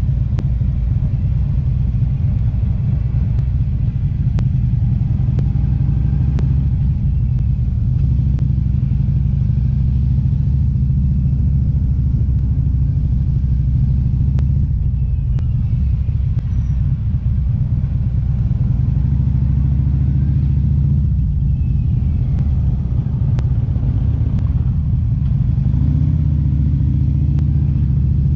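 Motorcycle engine running at a steady cruise, with a continuous low road rumble.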